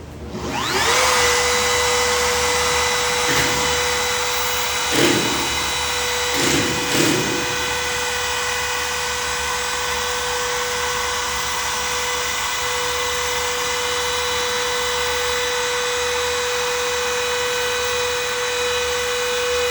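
Handheld trim router switched on and spinning up about half a second in, then running steadily with a high whine while flush-trimming edge banding, with brief louder rasps around five and seven seconds in as the bit cuts.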